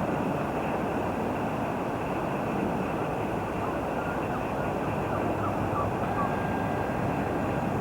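Train running through the station, a steady, even rumble.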